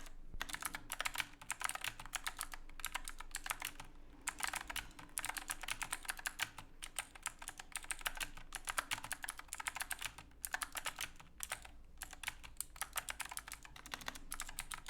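Typing on an Epomaker AK84S mechanical keyboard with clicky blue-type switches under silicone keycaps: fast, continuous runs of key clicks with brief pauses between bursts.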